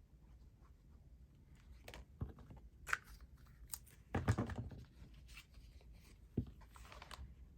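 Paper being handled and pressed during craft work: rustling and crinkling with scattered light taps and clicks, the loudest a crinkling scrape about four seconds in.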